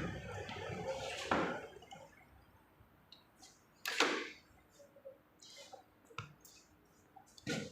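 Handling noises during work on a motorcycle: a few scattered sharp clicks and knocks, the louder ones about a second in, about four seconds in and near the end.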